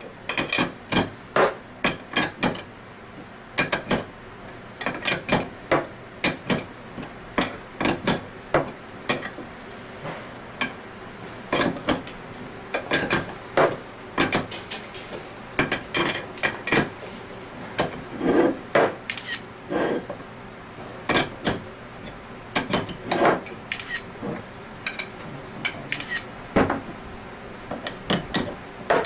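Metal hand tools and steel pump parts knocking and clinking: a string of sharp, irregular taps and clinks, some in quick pairs, as fasteners on the scroll pump are worked on with a wrench.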